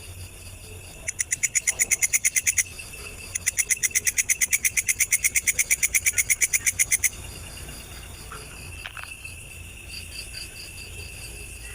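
Insect calls: two trains of fast, evenly spaced rasping pulses, about ten a second, the first starting about a second in and lasting a second and a half, the second running from about three and a half to seven seconds. Underneath, a steady high-pitched insect trill continues throughout.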